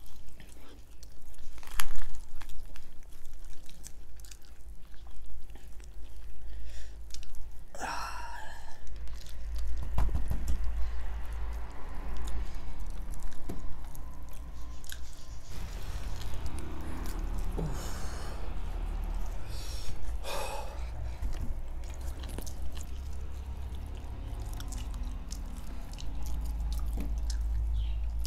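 People chewing and biting roasted chicken, with scattered sharp clicks of mouth and hand noise over a steady low hum.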